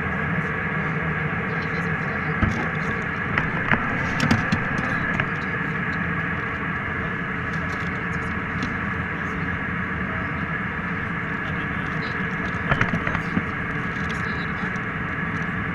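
Steady jet airliner cabin noise, an even rush with a faint hum in it, broken by a few short sharp clicks a few seconds in and again near the end.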